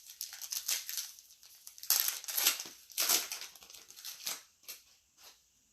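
Basketball trading cards being handled and slid against one another: a string of irregular dry rustles and swishes, loudest about two and three seconds in, dying away near the end.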